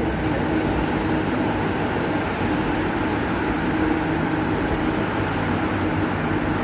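Steady running noise of an electric metro train, an even rumble with a faint low hum.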